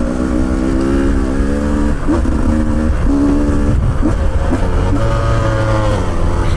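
Dirt bike engine running under way on a trail, its pitch dropping and picking up again several times as the throttle is rolled off and on, over a steady low rumble.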